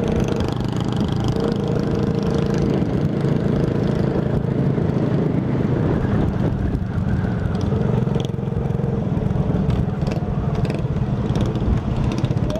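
Tuned 50cc Shineray Phoenix moped engine running steadily under way, its exhaust loud and rasping with a fast pulse.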